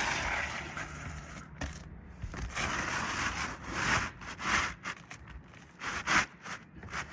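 Asphalt roof shingle scraping and crackling in a series of irregular strokes as it is worked into place under the overlapping shingles.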